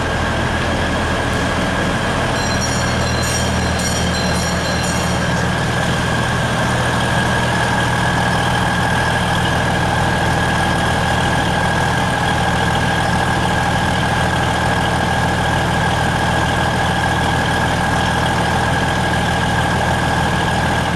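Logawa passenger train running, a steady rumble and hum of the moving train with no breaks.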